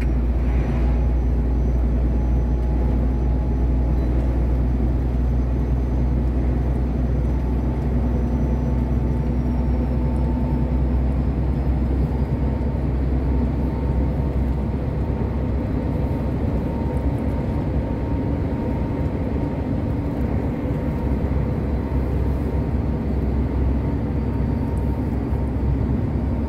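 Steady drone of a long-haul truck's engine and road noise heard inside the cab while cruising on the highway.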